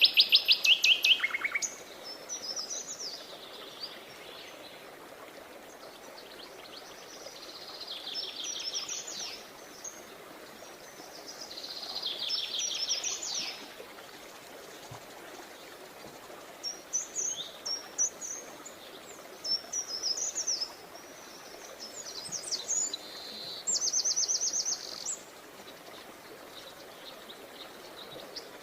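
Songbirds chirping and singing in short phrases of rapid trilled notes, one phrase every few seconds, over a faint steady outdoor hiss.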